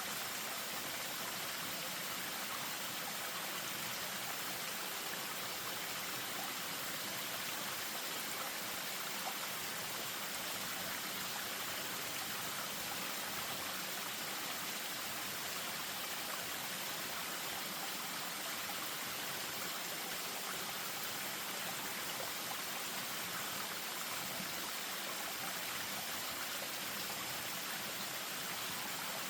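Spring-fed stream running over a small waterfall, a steady rush of moving water.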